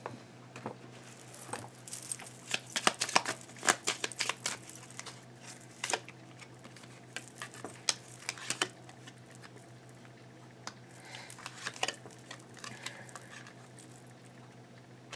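Tarot cards handled on a table: runs of quick clicks and light taps in clusters, thickest in the first few seconds. A steady low hum runs underneath.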